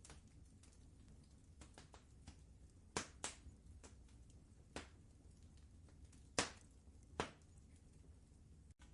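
Wood fire crackling in a fireplace: a low steady rumble with a handful of sharp pops, the loudest about three seconds in and again around six and a half seconds.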